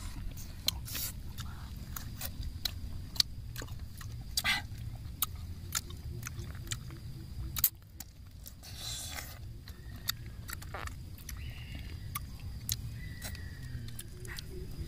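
Close-up mouth sounds of biting into and chewing santol fruit: repeated short sharp clicks and smacks at an irregular pace. A low steady rumble sits underneath and drops away about halfway through.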